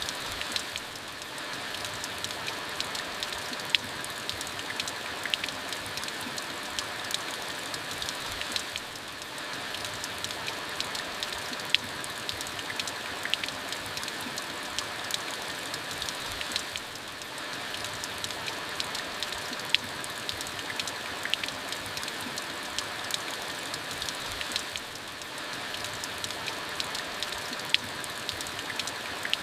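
Steady rain falling, with sharp ticks of individual drops landing over the hiss. The rain eases briefly about every eight seconds.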